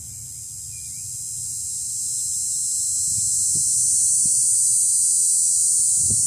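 Insects buzzing in a steady, high-pitched chorus that swells louder, over a low rumble. A few soft thumps come near the end.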